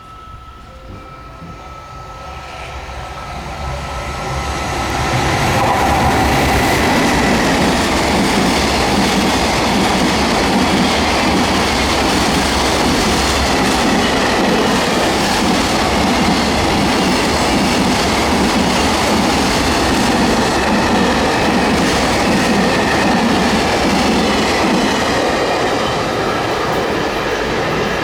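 Freight train hauled by an EF210 electric locomotive passing through a station without stopping: the rumble swells over the first five seconds as the train arrives, then the wagons roll past loud and steady for the rest of the time.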